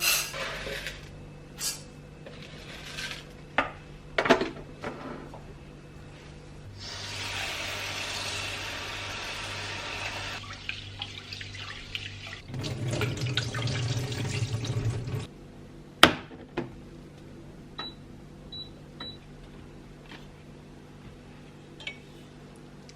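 Kitchen tap water running into a sink for a few seconds, then a louder, deeper rush of water, with scattered knocks and clinks of dishes. Three short high beeps come near the end.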